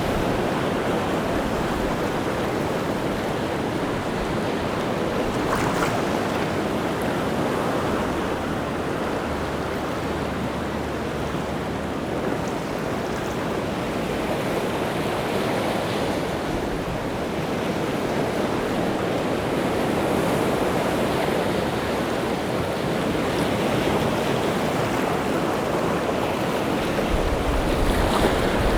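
Rough sea surf breaking and washing in steadily without a break, swelling a little louder near the end.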